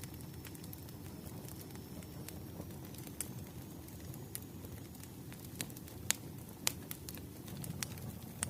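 Wood fire burning in a fireplace: a low, steady rumble of flames with scattered sharp crackles and pops from the burning logs, the loudest pops about three, six and seven seconds in.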